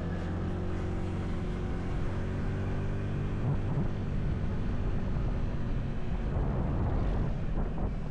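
Motorcycle engine running steadily while riding, its pitch shifting a little as the throttle changes, with wind rushing over the microphone.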